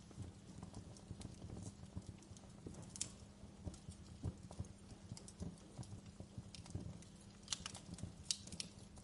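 Wood fire burning in a fireplace: irregular pops and crackles over a low, steady rumble, with a quick run of sharper crackles near the end.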